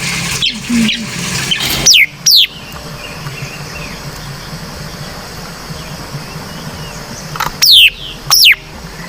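White-browed laughingthrush calling: two loud, sharply falling whistled notes about two seconds in, then another pair near the end.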